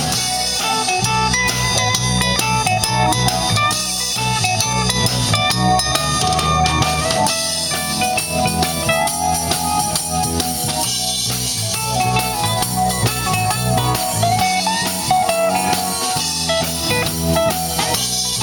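Live blues band playing an instrumental break: electric guitar soloing over bass and a drum kit.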